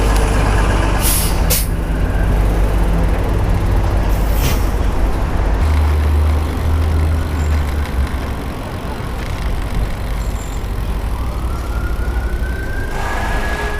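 City traffic heard from a moving bicycle: heavy trucks and buses running, with wind rumbling on the unshielded microphone. Short hisses of truck or bus air brakes come about a second in, again shortly after, and about four and a half seconds in. Near the end a siren's tone starts to rise.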